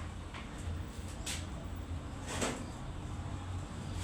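Three short noises about a second apart over a steady low hum, from hand-tool work on a motorcycle engine in a workshop.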